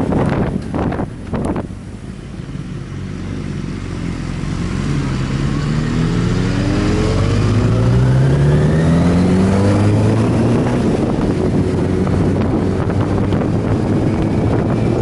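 Motorcycle engine running under way with heavy wind noise, its pitch rising steadily for several seconds as it accelerates before levelling off.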